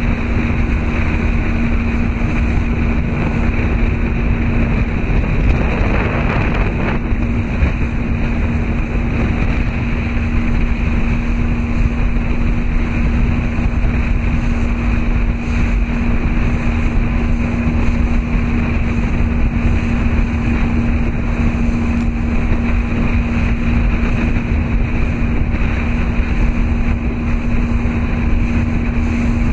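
Motorboat engine running steadily, a constant drone with a low hum, mixed with wind and water noise.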